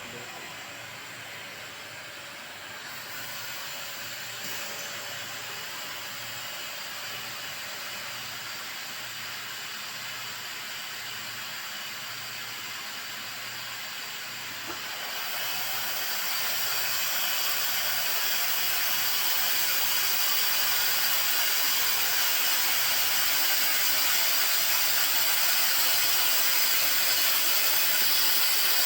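Amorphous core annealing furnace running with a steady hiss, which grows louder and brighter about halfway through.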